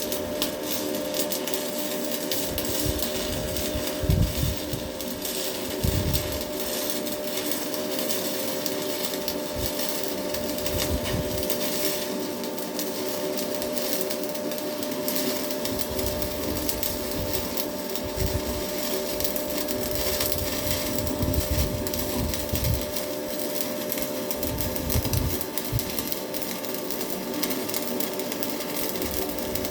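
Stick welding with a Hilco electrode: the arc's steady crackle and sizzle over a constant hum, with a few low thumps, the loudest about four and six seconds in.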